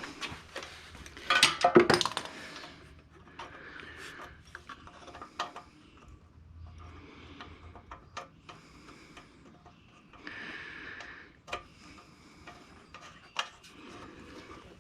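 Small metal carburetor parts clinking, tapping and rubbing as they are handled and fitted back together, with a louder flurry of clatter about a second and a half in and scattered clicks after.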